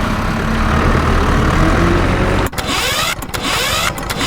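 A vehicle engine running steadily with a low hum that cuts off about two and a half seconds in, followed by a busier sound full of quick rising and falling pitches.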